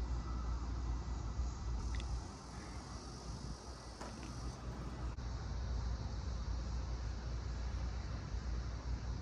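Steady low outdoor rumble with a faint hiss above it, easing for a few seconds early on; a couple of small faint clicks about two and four seconds in.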